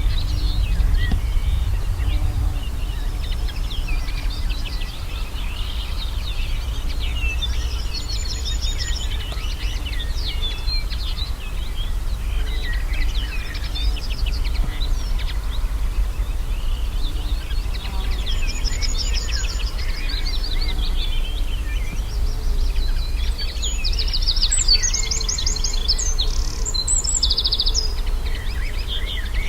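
Wild birds singing: several rapid trilled phrases come and go, with a steady low rumble underneath.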